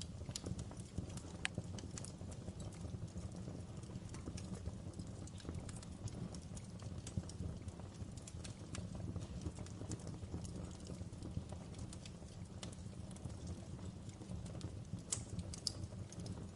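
Fireplace fire crackling: irregular sharp pops and snaps over a steady low rumble, with a couple of louder pops near the end.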